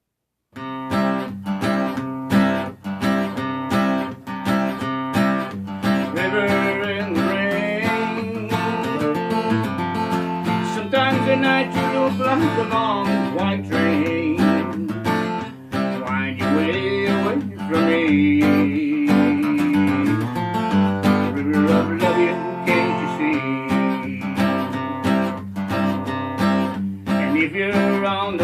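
Acoustic guitar playing an instrumental introduction, a steady strummed chord pattern with a melody line moving above it, starting about half a second in.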